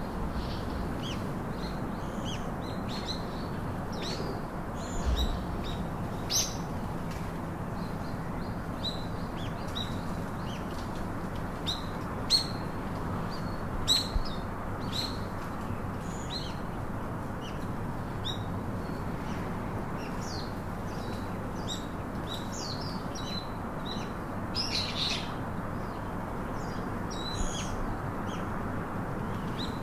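Ring-necked and Alexandrine parakeets chirping in short, sharp calls scattered throughout, with a few louder calls, over a steady low background noise.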